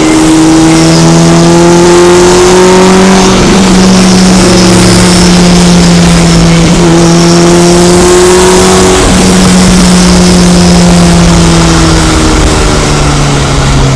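Honda VTEC engine under hard acceleration, its pitch climbing and stepping down at upshifts about three and a half, six and a half and nine seconds in, then falling slowly as the car eases off near the end.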